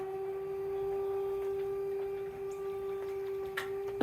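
Electric drive motor of a homemade pickup bed roll-off running at a steady pitch, a constant whine, with a short click a little before the end. It cuts off right at the end.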